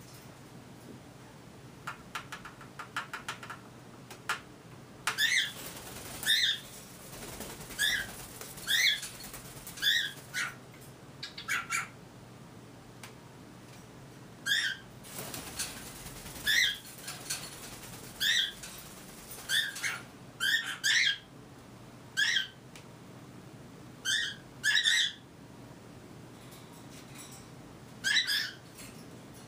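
Cockatiel giving loud, short contact calls over and over, one every second or two, with a quick run of soft chirps just before they start.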